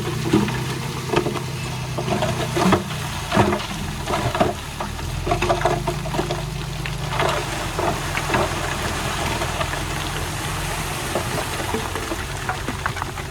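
Heavy diesel earthmoving machine running steadily, with a string of clanks and knocks over the first eight seconds or so that thin out after that.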